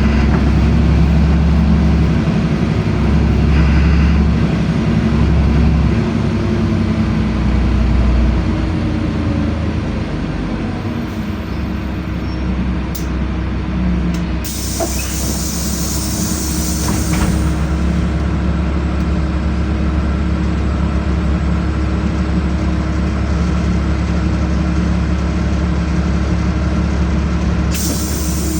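LiAZ-5292 city bus heard from inside while driving: a steady engine and drivetrain drone, louder for the first several seconds and then easing off. A hiss of compressed air comes about halfway through and again near the end.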